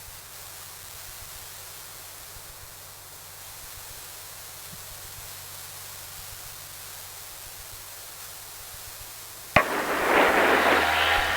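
Cockpit audio of a Mooney M20E's four-cylinder Lycoming engine: a steady quiet hiss with a faint low hum, then about nine and a half seconds in a click and a sudden jump to loud engine noise as power comes up for the takeoff roll.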